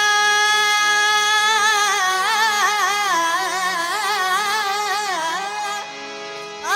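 A solo voice singing a wordless melismatic line in Sufi folk style. A long held note breaks into rapid, wavering ornamented runs. After a short pause near the end, a quick upward glide starts the next phrase, over a faint steady low accompaniment.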